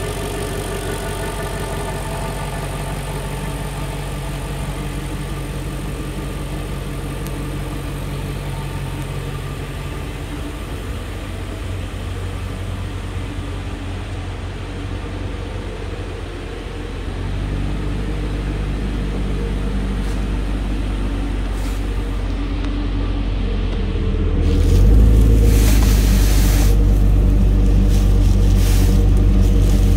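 A 2002 BMW 540i's 4.4-litre V8 idling steadily. It gets louder, with more low rumble, about two thirds of the way through, as it is heard at the exhaust and from underneath the car. Brief rustling noises come near the end.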